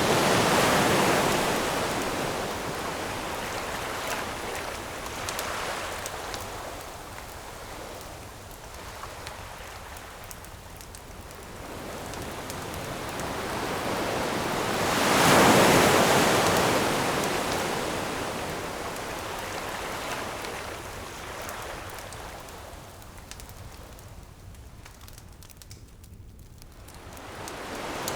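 Ocean waves surging onto a shore and washing back. They swell loudest just after the start and again about halfway through, with a lull before the next wave builds near the end. Faint crackles of a campfire are scattered through the quieter stretches.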